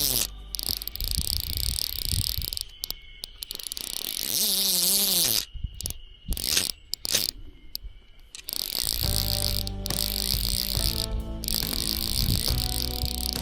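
Steady high-pitched insect chorus, cut off abruptly several times by edits, with background music of held notes coming in during the second half.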